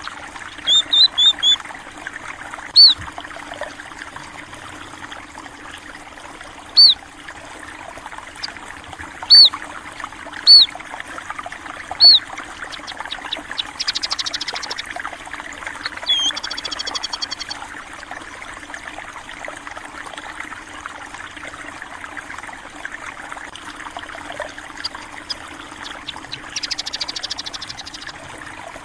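A steady trickle of running water under short, sharp chirps from small birds: a quick run of four near the start, then single chirps every couple of seconds. A few high, buzzy trills come in around the middle and again near the end.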